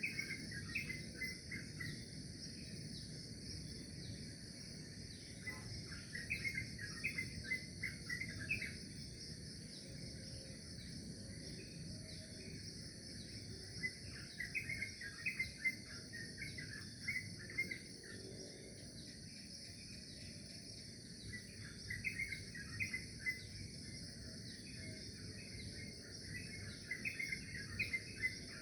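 Crickets or other insects trilling steadily and high, while a bird sings short bursts of quick chirps every several seconds, over a low background rumble.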